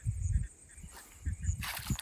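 Insects chirping in short, regular pips, with low bumps of handling or wind on the microphone and a brief rushing noise about one and a half seconds in.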